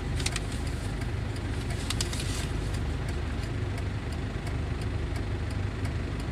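Car engine idling, heard from inside the cabin: a steady low hum, with a few short clicks in the first couple of seconds.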